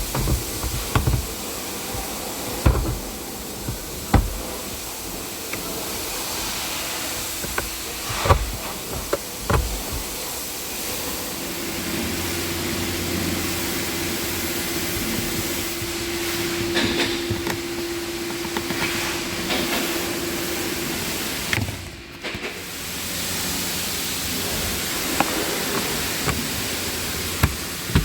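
Scattered sharp knocks and clicks of hand work fitting the replacement AC blower motor assembly into the Nissan X-Trail, over a steady hiss. A faint steady hum runs from about 11 to 21 seconds in.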